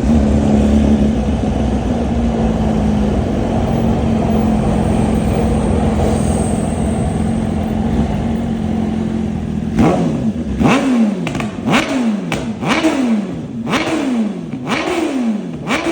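BMW S1000RR inline-four engine breathing through a titanium full exhaust, running steadily at high revs for about ten seconds, then revved in about six quick blips, each snapping up with a crackle and falling away.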